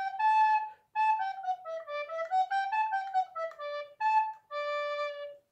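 Soprano recorder playing a quick run of tongued notes that climb and fall stepwise, with two short breaks, and ending on a long held low note.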